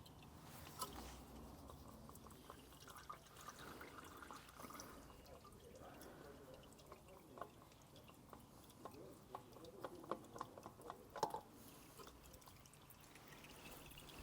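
Engine oil draining from a Kubota mini digger's engine, faint dripping, with scattered light clicks, the loudest about 11 seconds in.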